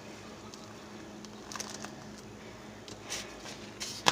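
Faint sticky squishes and small clicks of fingers working hot, hardening microwaved gummy candy, with a sharper click at the very end.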